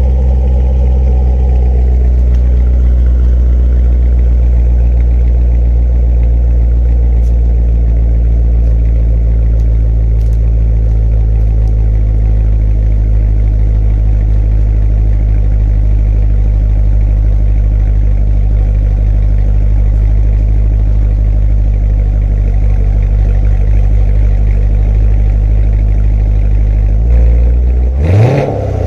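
C7 Corvette Grand Sport's 6.2-litre LT1 V8 idling steadily just after a cold start, its pitch settling a little in the first couple of seconds. Near the end the throttle is blipped once in a quick rev.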